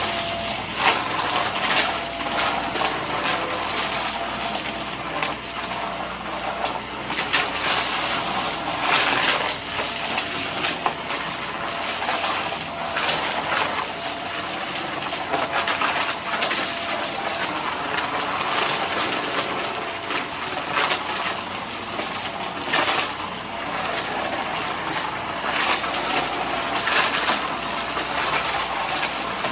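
Vacuum cleaner running and sucking up dry debris, with a constant rush of air and many small clicks and crackles as bits are picked up.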